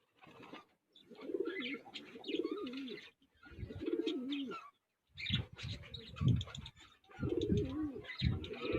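Domestic pigeons cooing in repeated low, warbling bouts, about four of them with short gaps between.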